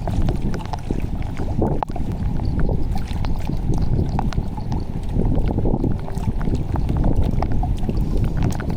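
Water sloshing and splashing, a dense steady low rush with many small ticks scattered through it.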